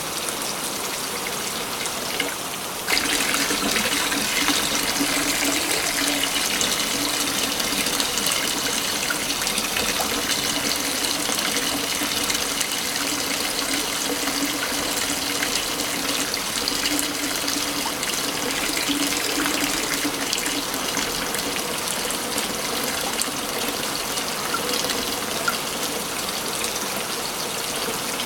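Waterfall rushing steadily, an even wash of falling water that jumps up in loudness suddenly about three seconds in.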